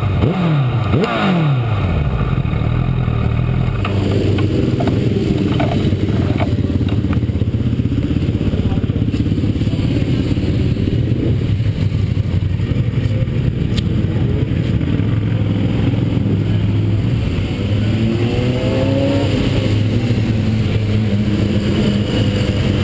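2012 Honda CBR1000RR inline-four sportbike engine heard onboard: revs drop sharply in the first two seconds, then it runs steadily under a rush of wind noise, and the revs climb again near the end.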